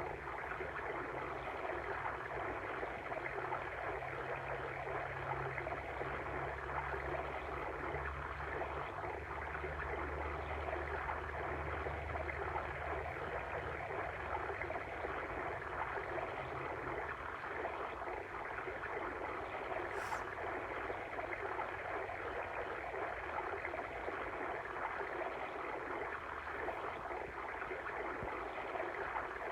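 Flowing water stream, a steady rushing sound, with a low rumble underneath that fades out about halfway through.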